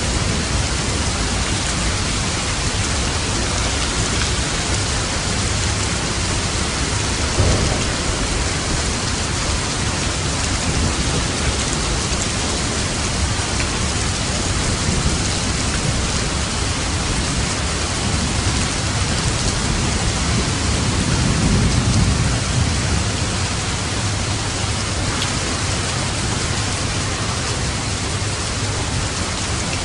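Steady rain falling, with a low rumble swelling and fading about twenty seconds in, like distant thunder.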